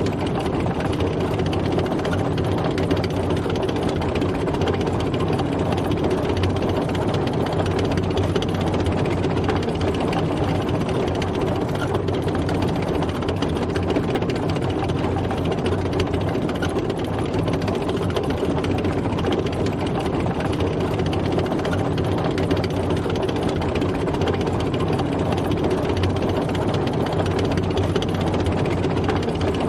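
Tank driving, its heavy engine running steadily without change.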